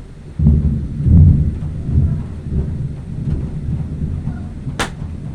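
Thunder: a loud low rumble that starts abruptly about half a second in and rolls on, with a single sharp click near the end.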